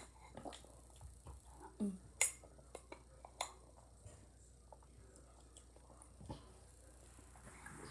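Faint sharp clicks and taps of eating ice cream with a spoon, scattered irregularly, with a few louder ones two to three and a half seconds in.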